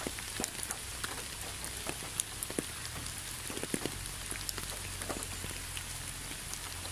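Steady rain, a constant hiss broken by many separate drops ticking close by at irregular intervals.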